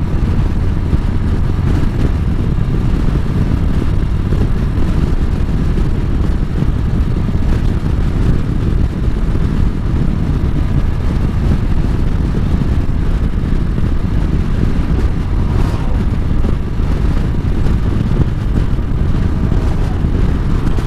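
Harley-Davidson motorcycle being ridden at road speed: a steady low engine drone mixed with a constant rush of wind noise.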